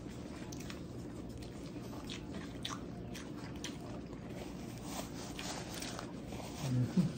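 Close-up chewing of a mouthful of beef burger: irregular, squishy mouth clicks, with soft rustling of a paper napkin being handled. A short, low 'mm' hum from the eater comes near the end.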